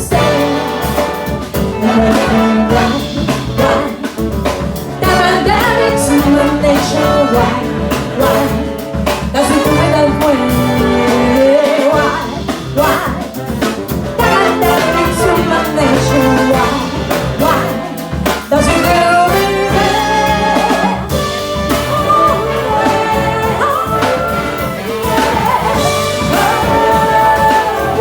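Jazz big band playing an instrumental passage, with the brass section of trumpets and trombones prominent.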